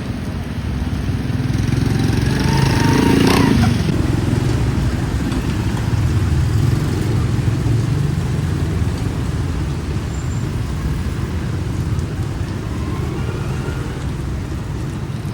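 Motorbikes passing on a wet street, one passing close about three seconds in, over a steady rumble of traffic and rain.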